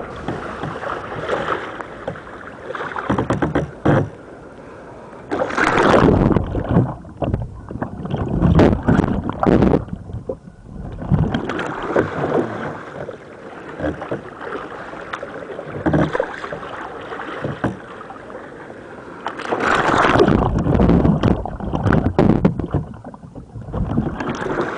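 Water splashing and rushing around a sea kayak and its bow-mounted camera as the kayak capsizes and is rolled back upright, twice: a long loud stretch about a quarter of the way in and another about four-fifths of the way in, with lighter sloshing and drips between.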